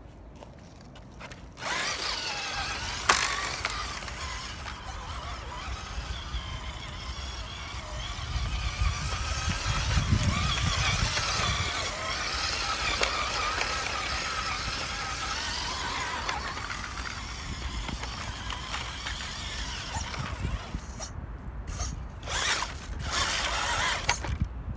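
Electric RC off-road car's motor and gearbox whining as it drives over rough ground, starting about two seconds in, with a sharp knock shortly after and a couple of short bursts near the end.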